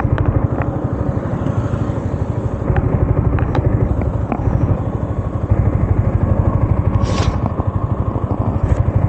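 Yamaha MT-15's single-cylinder engine idling steadily through its exhaust, about a dozen firing pulses a second, with a few light clicks.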